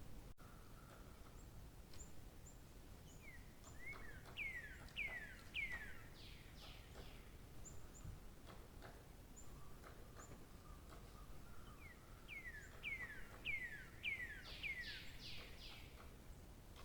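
A songbird singing two phrases several seconds apart. Each phrase is a quick run of about six falling notes followed by a few higher notes, with faint high chips in between, over a soft background hiss.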